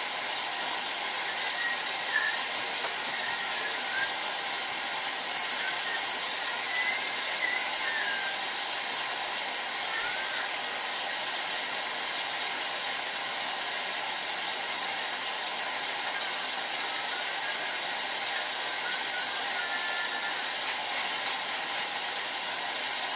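Hotpoint 9534A washing machine running, with a steady even noise and a few faint knocks.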